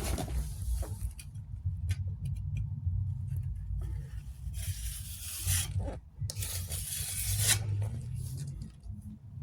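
Rubbing, rasping strokes of hand work on a wall surface: a few short strokes, then two longer ones of about a second each near the middle, over a steady low rumble.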